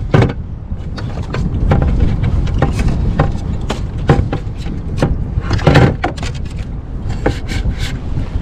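Wind rumbling on the microphone, with irregular sharp knocks and clatter of things being handled aboard a kayak.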